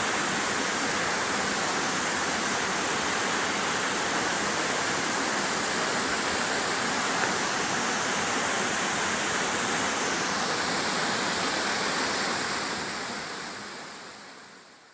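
Waterfall pouring steadily: a dense, even rush of falling water, fading out over the last few seconds.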